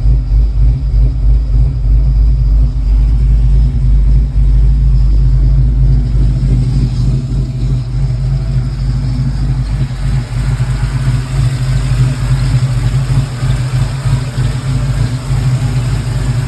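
LS V8 engine with a Brian Tooley Racing Truck Norris camshaft idling, the uneven, choppy lope that the cam's long-duration profile gives at idle. It runs steadily and loudly with no revs.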